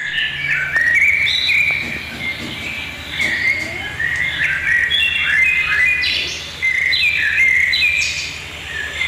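Several birds chirping and calling at once in a dense run of short, overlapping notes and quick pitch glides, over a steady low background hum.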